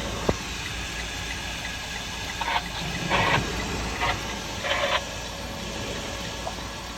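Semi truck engine running, heard from inside the cab, with a single sharp click just after the start and four short bursts of hiss around the middle.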